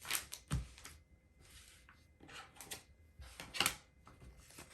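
LEGO pieces, plastic bags and instructions being moved about on a tabletop: a scatter of small clicks and taps and short plastic rustles, the loudest tap about three and a half seconds in.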